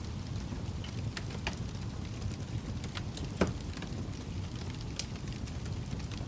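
Wood fire burning in a fireplace: a steady low rumble of the flames with scattered sharp crackles and one louder pop about three and a half seconds in.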